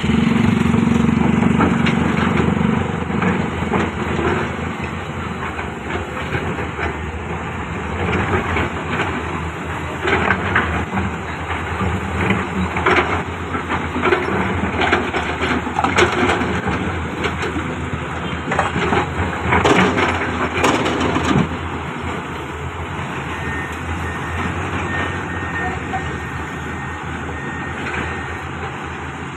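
Excavator's diesel engine running steadily at work, with scattered cracks, knocks and crunching through the middle stretch as rock and soil are worked.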